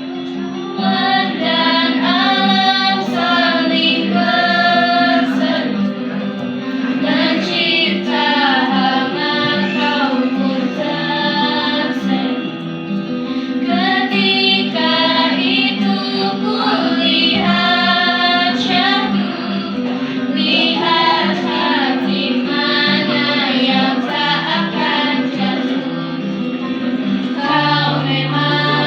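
A woman singing a slow melody in phrases with held, wavering notes, over instrumental accompaniment that holds steady chords.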